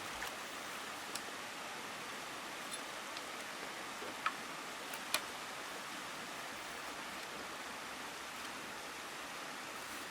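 Steady rushing of water, with a few sharp clicks about one, four and five seconds in.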